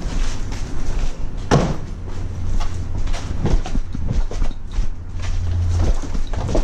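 Knocks and clunks of a person climbing down an old ladder, the loudest about a second and a half in, over a steady low rumble.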